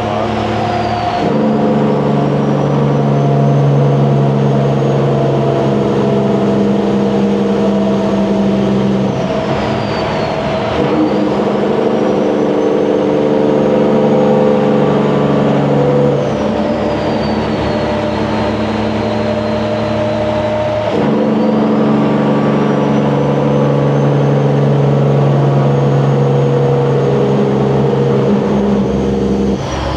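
Semi truck's diesel engine pulling hard through 8-inch exhaust stacks, its note dropping and picking up again three times. A turbo whistle rises after each drop and falls away before the next.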